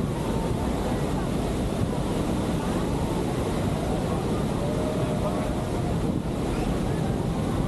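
Steady rush of water and wind buffeting the microphone aboard a boat near Niagara's Horseshoe Falls, with faint voices underneath.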